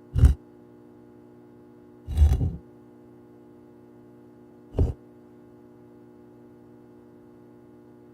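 Three heavy thumps, the second longer and rougher, a couple of seconds apart, over a steady low hum.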